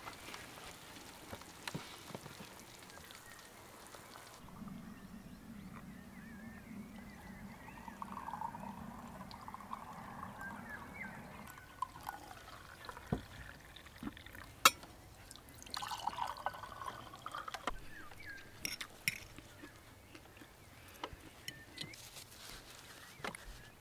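Liquid being poured and trickling, with several sharp clicks and knocks scattered through, the loudest about two-thirds of the way in.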